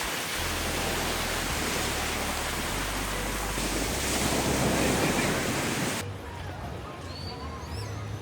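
Wind buffeting the microphone over the rush of surf, a dense steady roar. About six seconds in it cuts off abruptly to a much quieter background with a few faint high chirps.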